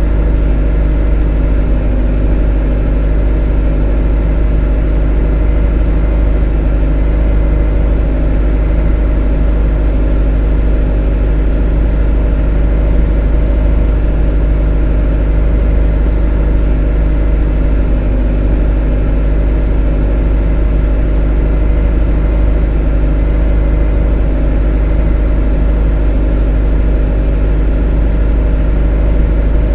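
A motor running at a steady, unchanging speed: a monotonous drone with a strong deep hum and a set of steady tones above it.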